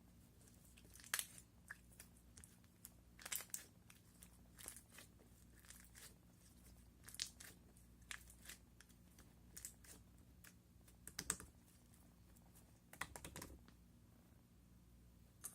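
Toy slime being squished and poked by hand, giving faint, scattered clicks and crackles.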